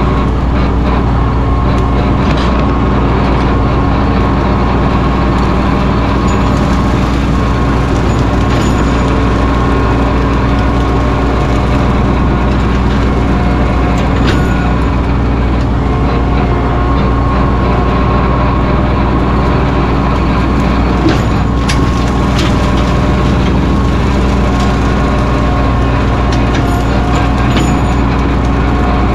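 Mahindra 1626 sub-compact tractor's three-cylinder diesel engine running steadily, with a few short knocks along the way.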